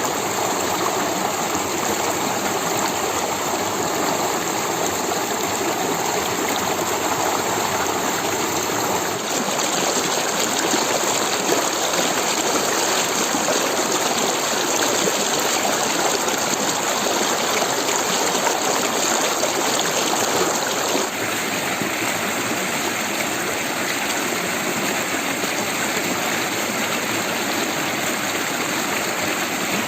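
Water of a stream flowing and rushing steadily. The sound shifts slightly in character about a third of the way in and again about two-thirds in.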